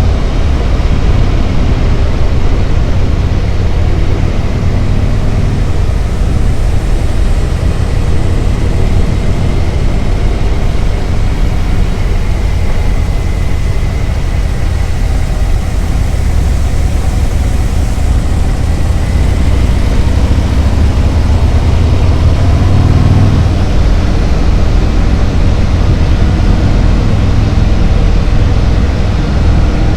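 Harley-Davidson Road Glide's V-twin engine running steadily at road speed, mixed with wind rush on the microphone. The engine pitch drifts slowly up and down, and the low rumble swells briefly about three-quarters of the way through.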